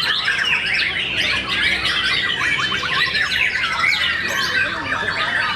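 Many caged songbirds singing at once: a dense, unbroken chorus of overlapping chirps, whistles and trills.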